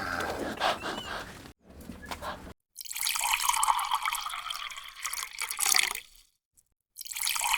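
Water trickling and splashing in two stretches, cutting off abruptly in between.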